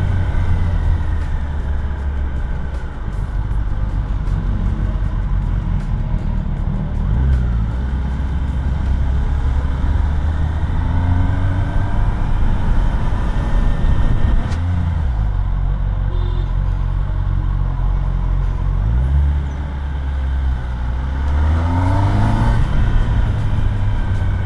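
Kawasaki ZX10R inline-four engine running through the stock exhaust while riding in traffic, rising in pitch several times as it accelerates, most clearly near the end.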